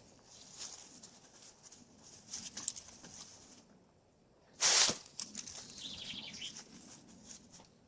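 Rustling and crackling of dry leaves and twigs, with one louder rustle a little past halfway and a brief high chirp soon after.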